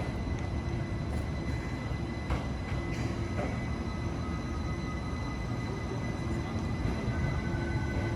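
Portland streetcar running along its track: a steady low rumble with a few sharp clicks about two to three seconds in, and faint high whines over it.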